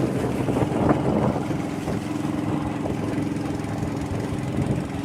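Boat engine running at a steady pitch.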